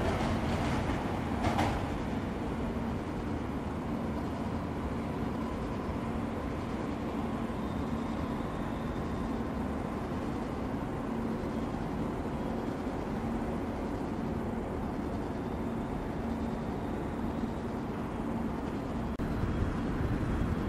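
E3-2000 series Yamagata Shinkansen train pulling away, its wheels clicking over the track points in the first couple of seconds. After that there is a steady, quieter rumble with a faint hum as it recedes.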